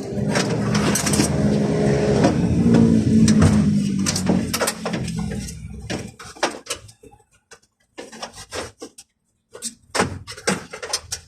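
A motor vehicle engine running with a steady drone that rises slightly and then fades away about halfway through, followed by a scattering of sharp clicks and knocks, like tools and metal parts being handled.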